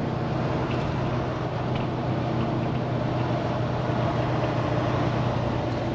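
Day-cab semi truck's diesel engine running with a steady, even drone, heard from inside the cab.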